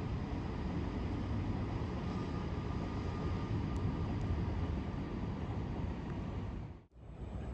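Distant electric suburban train passing, a steady low rumble with a faint hum over it, which breaks off abruptly about seven seconds in.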